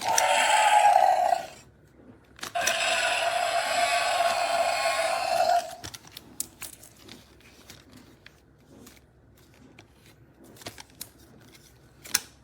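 Toy dinosaur's electronic roar played twice through its small built-in speaker, a short roar and then a longer one, followed by faint handling clicks.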